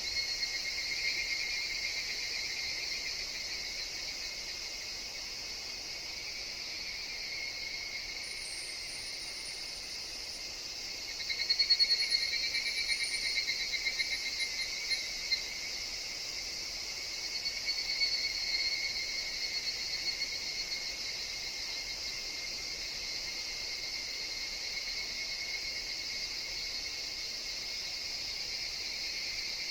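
Higurashi (evening cicadas) calling in a steady shrill chorus. About a third of the way in, a nearer one's rapid pulsing call swells loud and dies away over a few seconds, and a weaker call follows a few seconds later.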